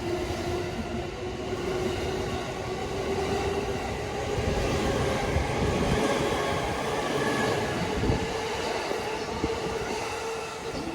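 Sōbu Line electric commuter train running past on the track, its wheels clacking over the rail joints, with a steady whine under the running noise and a few heavier knocks about halfway through.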